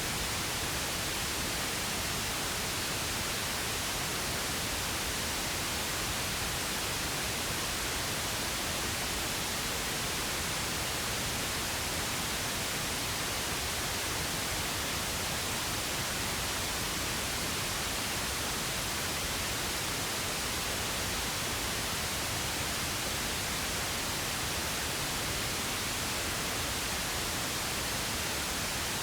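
Steady, unbroken pink noise: an even hiss spread across all pitches, with no change over time.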